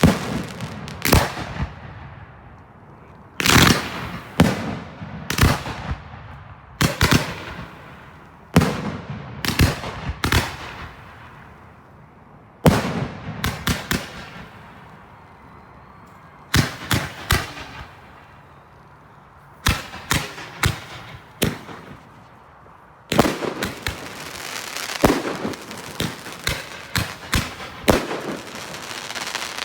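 Consumer fireworks going off in volleys: clusters of sharp bangs, each with a fading echo, separated by short lulls, turning into a denser, faster run of bangs near the end.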